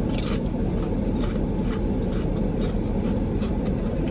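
Steady low rumble of a car, heard from inside the cabin, with a few faint short clicks over it.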